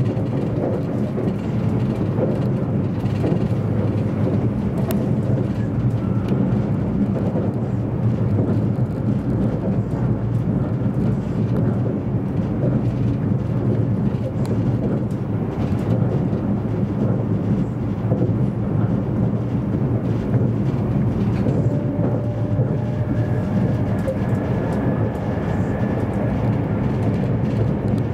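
Steady running noise heard inside a moving JR East E257 series 500 limited-express electric train: the low rumble of wheels on the rails and the car body in motion. A faint thin whine comes in during the second half.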